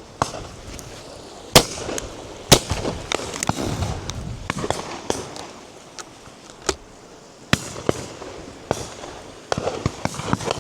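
Shotguns firing on a driven partridge shoot: a run of irregularly spaced shots, a few loud close ones (the strongest about one and a half and two and a half seconds in) among fainter shots from other guns along the line.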